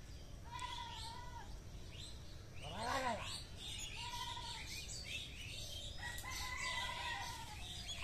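Birds chirping and calling: many short high chirps, a few held whistled notes, and one louder short call that rises and falls about three seconds in.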